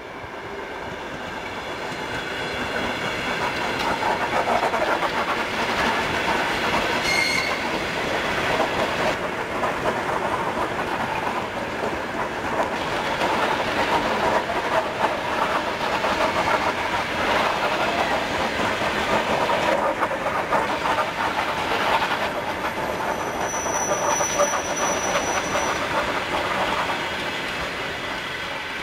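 Suburban electric multiple unit passing close by, its wheels clattering over the rail joints car after car, swelling in at the start and fading away near the end. A brief high squeal about seven seconds in, and a thin high wheel squeal for a few seconds late in the pass.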